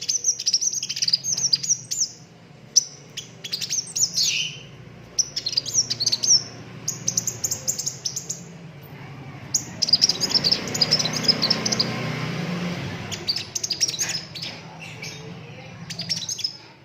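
A sunbird singing in a fast, high-pitched run of chirps and trilled rolls, in repeated bursts. The densest, longest run comes about two-thirds of the way through.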